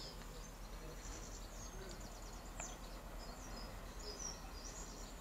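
Quiet outdoor background: a steady low hum with faint short bird chirps high above it, and a single faint click partway through.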